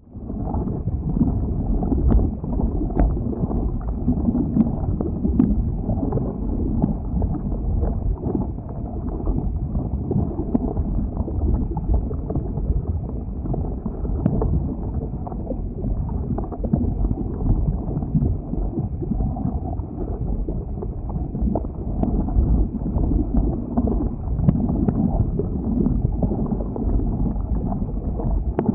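Flowing lava: a steady low rumble with scattered faint sharp crackles.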